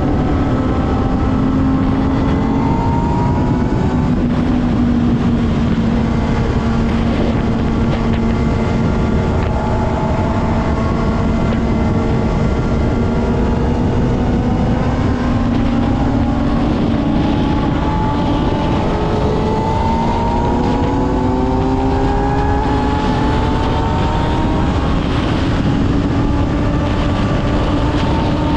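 Kawasaki ZX-6R's inline-four engine running at a steady cruise, its pitch drifting gently up and down with small throttle changes, over a constant rush of wind noise.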